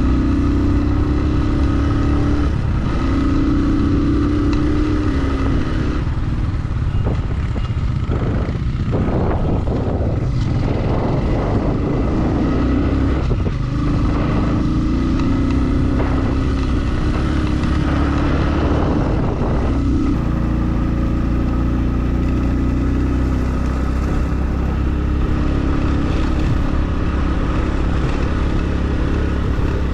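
Motorcycle engine running while riding, its pitch rising and falling a little with the throttle over a steady low rumble. There is a rougher, noisier stretch in the middle.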